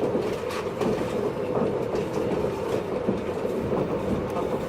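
Interior running sound of a JR East 583-series electric train, heard from a MoHaNe 582 motor car: a steady rumble of wheels and running gear under way, with a few scattered clacks.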